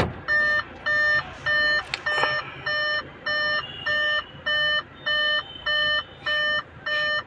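Electronic beeper sounding a steady train of short, evenly spaced beeps, about two a second.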